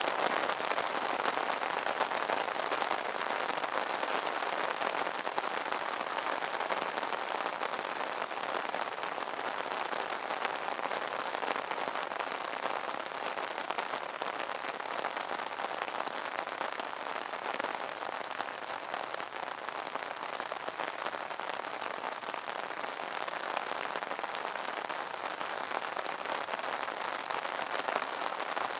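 Rain pattering steadily on an umbrella canopy, a dense even hiss of many small drop taps.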